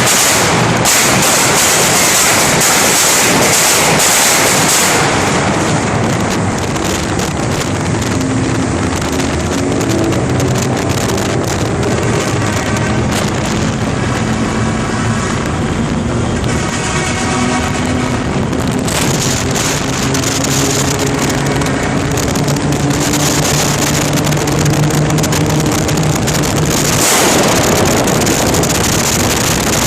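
Tuned car driving, its engine note rising and falling, under heavy wind noise on the microphone.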